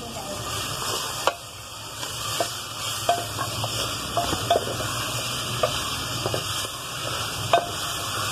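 Chopped tomatoes sizzling as they fry in oil in a metal pot, stirred with a wooden spoon, with a few light knocks of the spoon against the pot, the loudest near the end.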